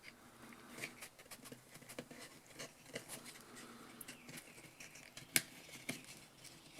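Faint small clicks and light scraping of a pull-starter's recoil spring and pulley being handled and pressed into the plastic starter housing, with one sharper click about five seconds in.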